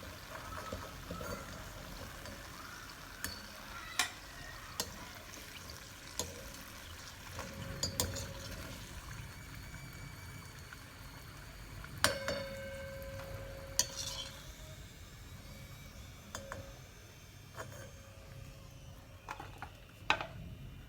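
Gujiya deep-frying in hot ghee, a steady low sizzle, with scattered clinks of a metal spoon against the pan; one strike about twelve seconds in rings briefly.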